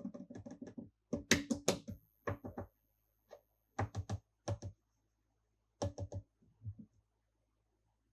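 Quick runs of light, sharp clicks and taps in several short bursts with pauses between them: small hard objects being handled.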